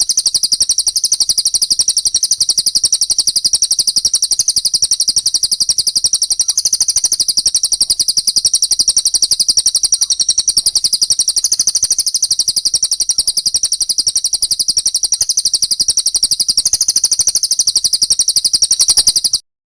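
Recorded small songbirds chattering: a fast, unbroken stream of high, shrill chirps, many each second, that cuts off suddenly near the end.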